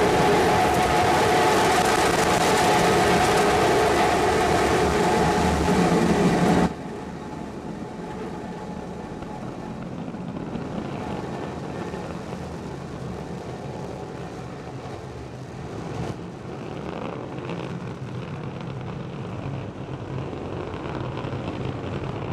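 Rocket engine noise from Starship SN15's three Raptor methane-oxygen engines burning during liftoff and climb: a loud, steady rumble. About seven seconds in, it drops suddenly to a quieter, duller rumble with the high end gone.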